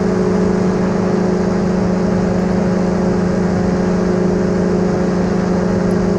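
Paratrike engine and propeller droning steadily in level cruise flight.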